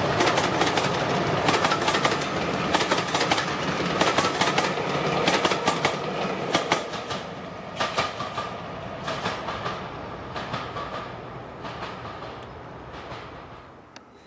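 Train of heritage passenger coaches rolling past and away, the wheels clicking rhythmically over the rail joints. The clicks fade steadily as the train recedes.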